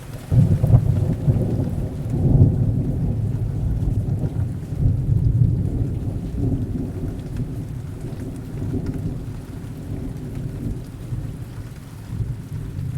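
A long roll of thunder breaks in suddenly just after the start and rumbles low in several swells, slowly dying away, over steady heavy rain.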